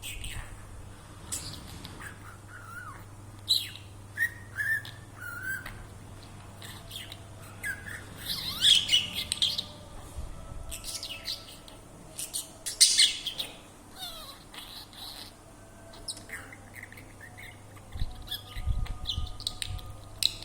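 Pet budgerigar chirping and warbling in irregular short bursts, the loudest about nine and thirteen seconds in, over a steady low hum.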